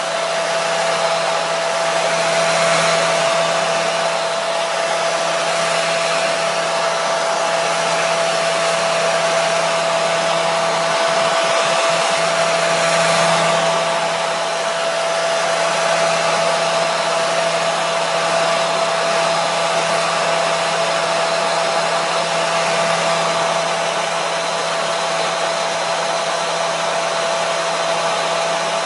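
Hair dryer running steadily, an even rush of blown air with a constant motor hum and a steady whine.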